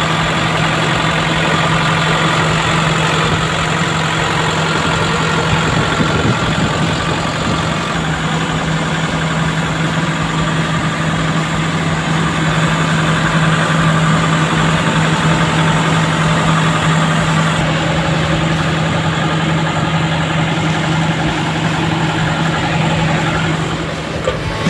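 Kobelco SK75-8 crawler excavator's diesel engine running steadily, with a constant low hum throughout.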